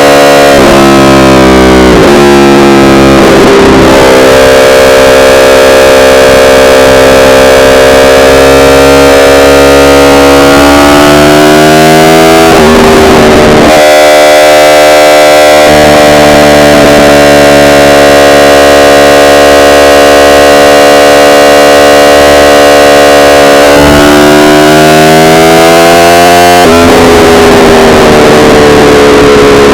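Yamaha R1 inline-four engine under way, its revs climbing over several seconds and then dropping sharply, several times, as it accelerates and shifts. A long fairly steady stretch comes in the middle. The recording is overloaded and heavily distorted.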